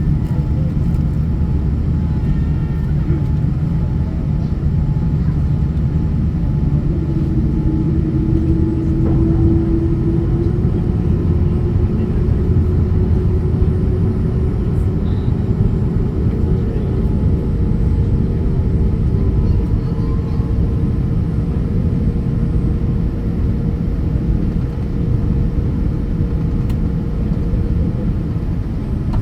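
Jet airliner heard from inside the cabin: a steady low rumble of engines and airflow, with a faint humming tone that shifts in pitch partway through.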